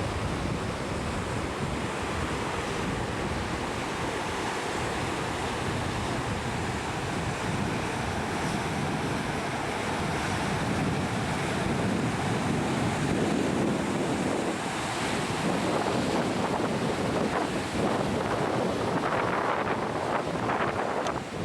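Wind buffeting the microphone over the steady rush of ocean waves, growing louder and gustier about halfway through.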